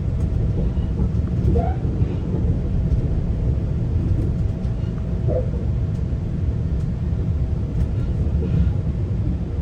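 Interior of a GO Transit passenger coach: a steady low rumble from the train, with a faint steady hum above it and a few light clicks.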